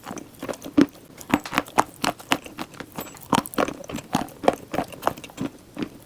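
Someone chewing and crunching chalk: a run of sharp crunches, about three a second.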